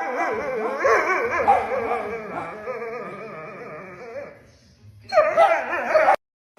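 A pet animal's drawn-out wavering cries, the pitch sliding up and down, for about four seconds, then a second shorter outburst about five seconds in that cuts off abruptly.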